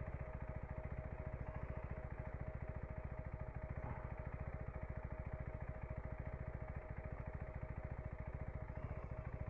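KTM 390 Enduro R's single-cylinder four-stroke engine idling steadily, a fast even run of firing pulses, with a thin steady whine alongside.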